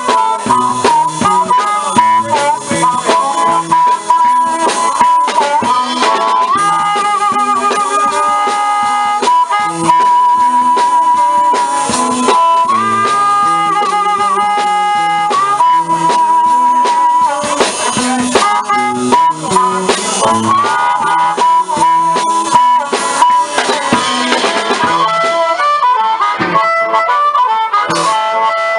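Live blues band playing an instrumental passage: a harmonica holds long, wavering notes and bends over guitar and drums.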